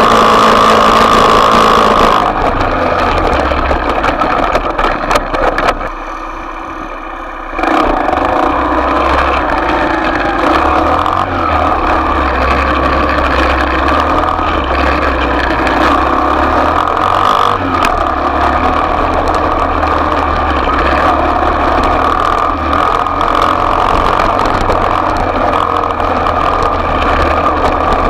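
Small off-road bike engine running, dropping away for a moment about six seconds in and then running again steadily.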